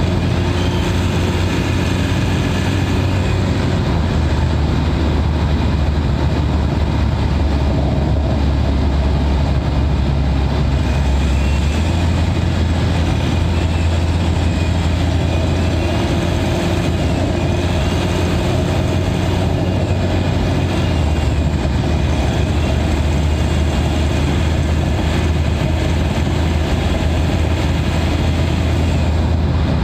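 Mitsubishi Pajero Sport's 2.4-litre four-cylinder turbodiesel, heard from inside the engine bay, running steadily at highway cruising speed. Its low drone shifts slightly in pitch a few times.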